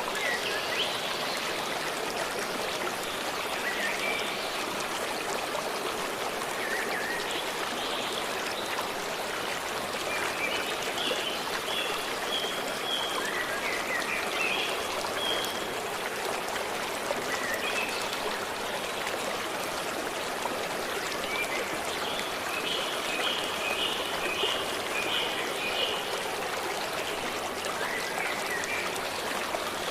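A forest stream running steadily, with small birds singing short chirping phrases at intervals over it, including a quick run of repeated chirps a little after the middle.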